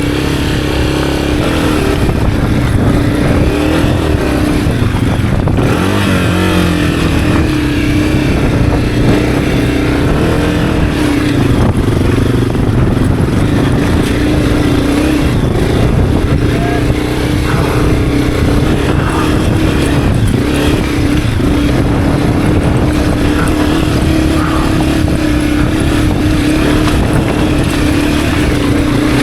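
Honda CRF250F's single-cylinder four-stroke engine running steadily on a climb, its pitch wavering briefly about six seconds in and then holding steady.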